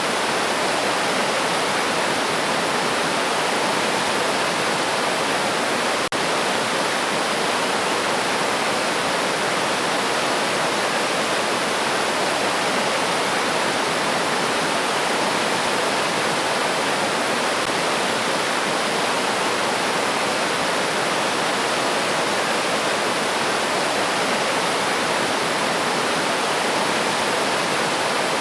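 River water flowing over stones, a steady, even rushing that does not change.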